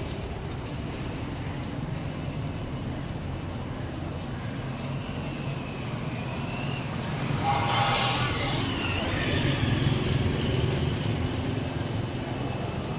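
Street traffic with a steady rumble. A vehicle passes close by, loudest about eight seconds in.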